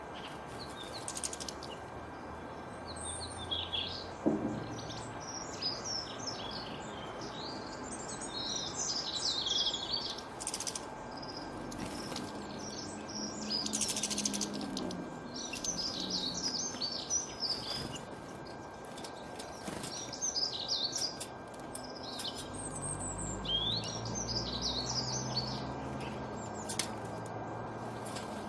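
Several small songbirds chirping and twittering in quick, overlapping phrases, over a steady background hiss.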